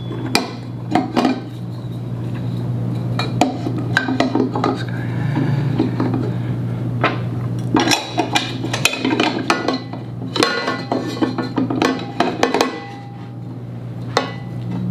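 Metal parts of a dual monitor mount clinking and knocking as the arms are handled and fitted onto the head assembly, in many irregular sharp clicks, over a steady low hum.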